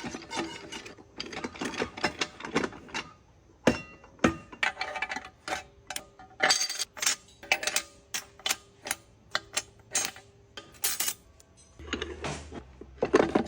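Metal transmission parts and hand tools clicking, clinking and knocking at an irregular pace, several sharp strikes a second, as a TH350 automatic transmission is worked on.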